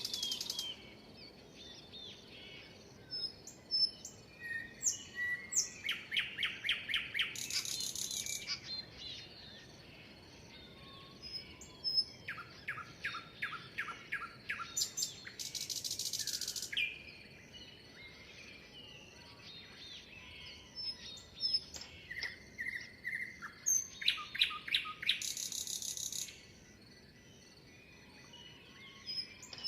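Several wild songbirds singing and chirping. Loud phrases of rapid repeated notes come four times, near the start, around 7 s, from about 12 to 17 s and around 25 s, with scattered short chirps and whistles in between.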